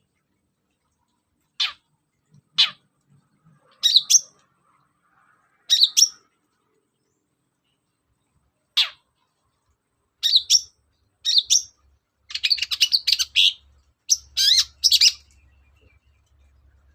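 Long-tailed shrike (cendet) calling. A few sharp, downward-sweeping notes come singly, a second or more apart. Between them are short bursts of scratchy chattering song, which come closer together and run longer toward the end.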